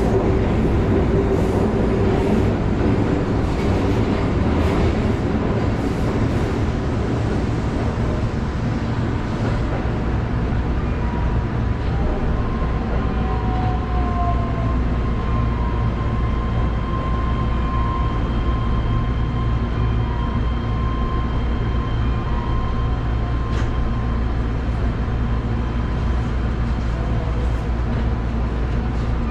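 Keihan electric commuter train heard from the cab, rolling slowly into a terminal platform: wheels clacking over points and rail joints for the first several seconds, then a steady low rumble. A thin high tone runs through the middle as the train slows toward the buffer stop.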